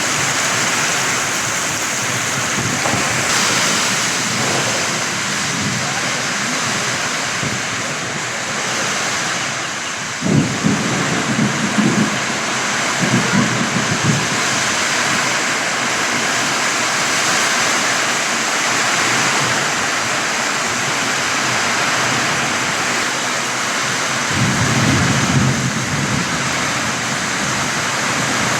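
Heavy rain falling steadily in a thunderstorm, with low rumbling thunder about ten seconds in and again near the end.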